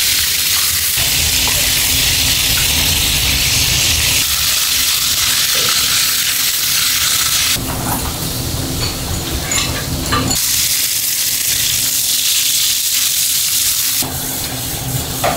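Food frying in oil in a commercial kitchen, a loud steady sizzle with some stirring, its level and character changing abruptly several times. A faint low steady hum runs under parts of it.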